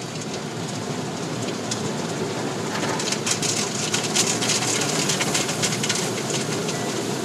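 Automatic car wash running: a steady rush of water spray with dense pattering and crackling on the car, thickest in the middle.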